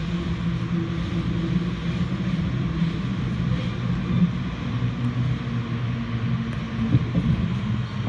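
Commuter train running steadily at speed, heard from inside a passenger coach: a steady low rumble.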